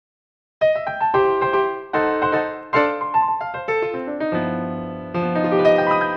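Piano music: a melody of struck notes with chords begins about half a second in, and the last chord is held and left to ring out near the end.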